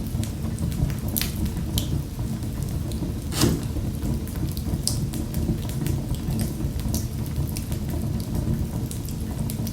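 Wood fire crackling in a fireplace: a steady low rumble of the flames under frequent sharp pops, the loudest about three and a half seconds in.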